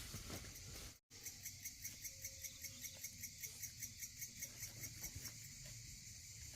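Insect chirping in a steady rhythm of short high-pitched pulses, about four a second, starting after a brief dropout about a second in and fading near the end.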